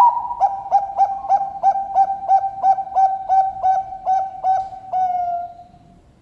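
Perkutut bangkok (zebra dove) singing its cooing song: an opening note, then an even run of about fourteen short notes, about three a second, closing on a longer drawn-out note that falls slightly in pitch.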